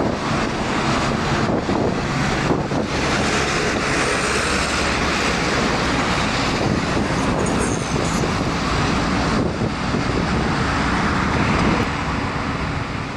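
Jet engine noise of a Boeing 757 freighter climbing out after takeoff: a loud, steady rush that begins to fade near the end.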